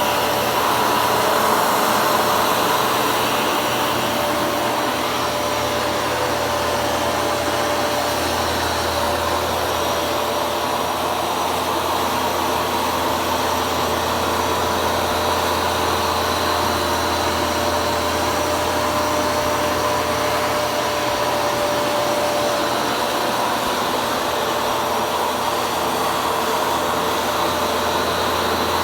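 Hoover carpet shampooer running steadily, its motor giving a loud, even whir with a steady whine.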